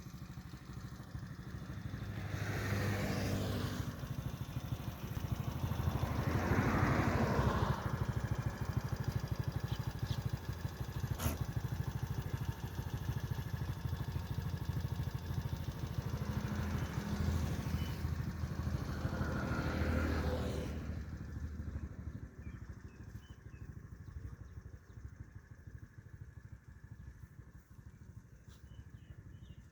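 A vehicle engine, motorcycle-like, running steadily with a low rumble. It swells louder several times, a few seconds in and again past the middle, then fades over the last third.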